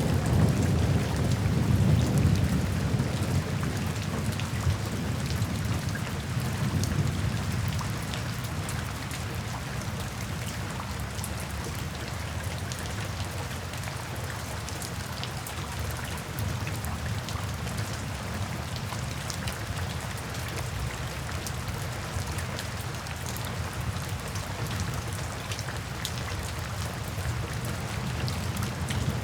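Steady rain falling, with many fine drop patters, and a low roll of thunder in the first seconds that fades out.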